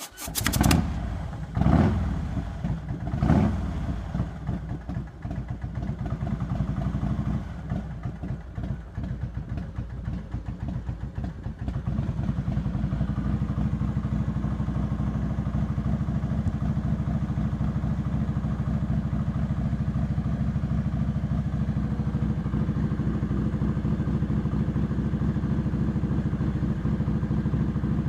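Harley-Davidson Heritage Softail Classic's 95-cubic-inch Screamin' Eagle V-twin, through Vance & Hines exhaust, starts up and is revved three times in quick succession. It runs unevenly for several seconds, then settles into a steady idle about twelve seconds in.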